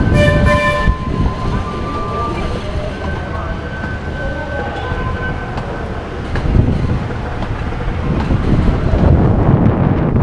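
A rail vehicle rumbling along its track. In the first second there is a short, high, horn-like tone.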